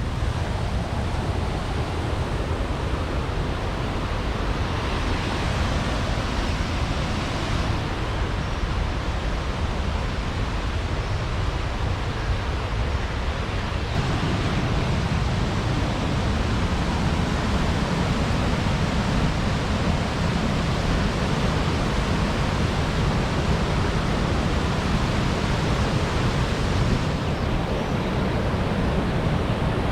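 Mountain waterfall rushing: a steady roar of falling water. It gets louder and deeper about halfway through.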